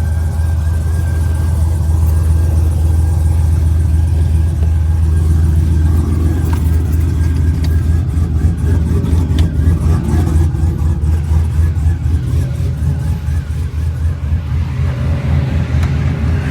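Cammed 2008 Chevy Silverado engine running through long-tube headers, no catalytic converters and a 3-inch exhaust with a dumped Magnaflow muffler: a loud, deep exhaust note that goes uneven and choppy in loudness through the middle.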